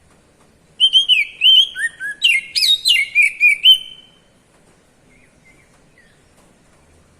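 Oriental magpie-robin (kacer) singing its 'cier-cier' ngeplong song: a loud burst of rapid, repeated sweeping notes starting about a second in and lasting about three seconds, followed by a few faint chirps.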